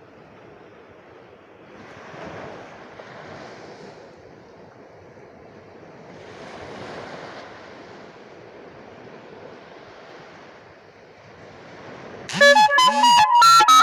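Sea waves washing on a shore, swelling and easing twice. Near the end, loud reedy music, like a harmonica or flute, starts abruptly over them.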